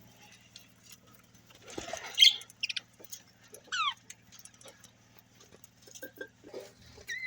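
Pet budgerigars chirping and chattering: scattered short calls, the loudest about two seconds in and a quick falling whistle just before four seconds, over a faint steady low hum.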